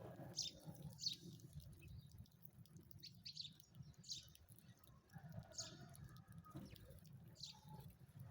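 Sparrows chirping faintly: short, single high chirps at irregular intervals of about a second, over a low background rumble.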